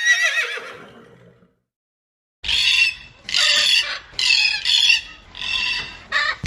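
The tail of a horse's whinny, wavering and falling in pitch, fades out in the first second and a half. Then, after a short silence, domestic fowl give a series of about six loud, harsh squawks.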